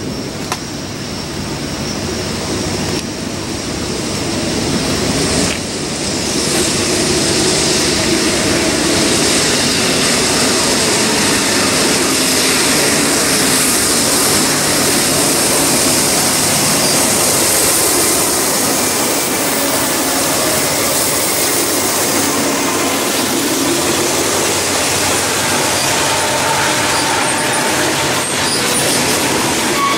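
Freight trains passing: the steady rolling rumble of a double-stack container train, growing louder about six seconds in as a second freight approaches and passes close, its covered hopper cars rolling by with wheel and rail noise.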